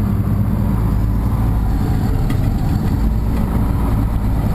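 Farm tractor engine running steadily at a constant speed, heard close up from the operator's position.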